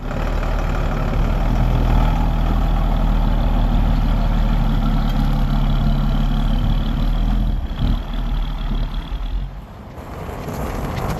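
Vehicle engine running steadily: a deep, loud hum with road and wind noise. It dips briefly about eight seconds in and again near the end.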